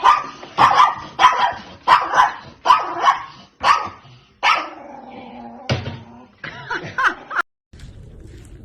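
A dog barking hard and repeatedly, about two barks a second, with one longer drawn-out call in the middle. A few more barks follow, then the sound cuts off abruptly, leaving a low steady rumble.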